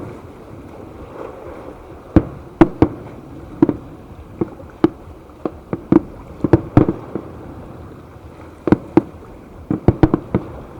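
Aerial fireworks shells bursting in an uneven string of sharp bangs, some in quick pairs and triplets, with a lull of about two seconds near the middle.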